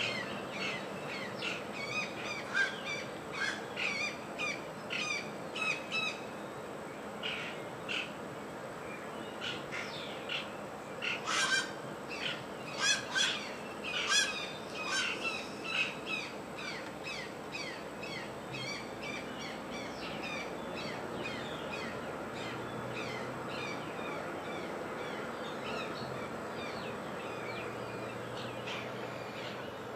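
Several birds chirping and calling at once in a rapid, overlapping run of short notes, busiest and loudest midway, with a faint steady high-pitched tone underneath.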